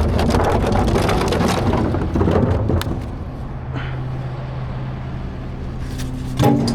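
Garbage truck at work: about three seconds of cracking and clattering as refuse is loaded or crushed, then the truck's engine running steadily, with one loud knock near the end.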